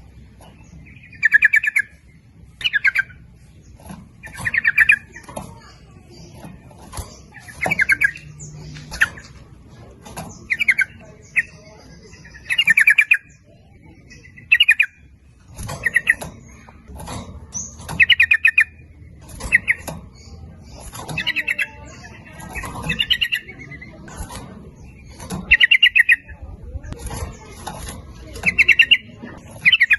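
Yellow-vented bulbuls (trucukan) calling: short, bubbly, rapidly pulsed chattering phrases repeated every second or two, a lure recording of the kind used to set captive bulbuls singing.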